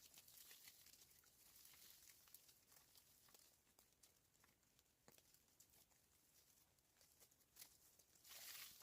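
Near silence, with faint scattered ticks and a brief soft rustle near the end.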